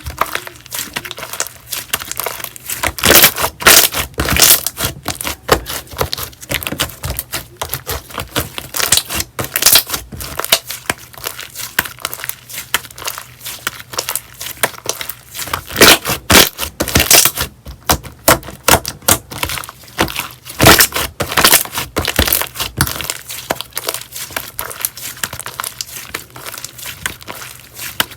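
Slime being squished, pressed and stretched by hand: a dense, continuous run of sticky crackles and pops, with louder bursts of popping a few times.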